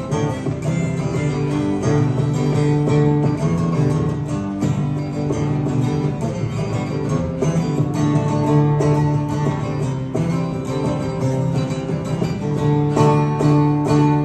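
Acoustic guitar playing an instrumental break in a country song, without singing.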